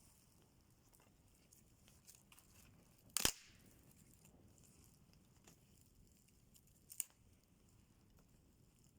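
Campfire wood crackling and popping: a few sharp, isolated cracks, the loudest about three seconds in and another near seven seconds, with faint ticks between.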